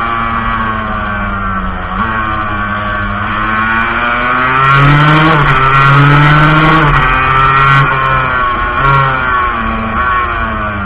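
Montesa Cappra 125's single-cylinder two-stroke engine under way, heard on board. It drops briefly about two seconds in, climbs to its highest and loudest revs mid-way, then winds down.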